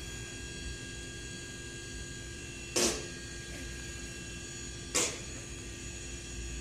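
A steady electrical hum with several faint whining tones, broken twice by short noisy bursts about two seconds apart.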